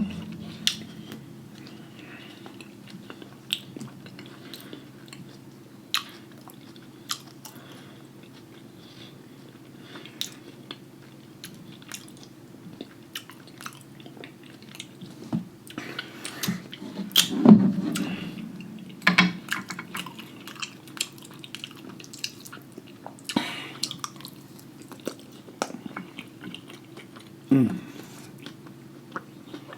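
Close-miked chewing and mouth smacking while eating loaded lobster tail and seafood, with scattered short wet clicks and a few louder bites, over a steady low hum.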